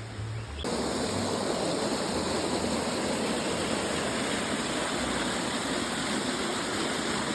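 Waterfall rushing: a steady, even wash of falling water that cuts in suddenly less than a second in and holds level throughout.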